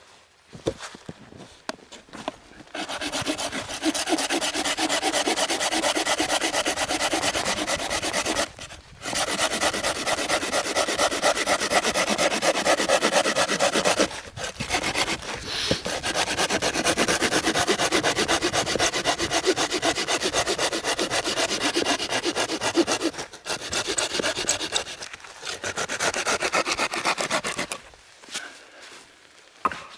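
Hand saw cutting through firewood with fast, steady strokes, stopping briefly a few times before it ends near the end.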